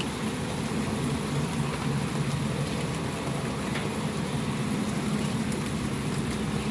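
Steady soft rain: a continuous even hiss with a low rumble underneath and a few faint drop ticks.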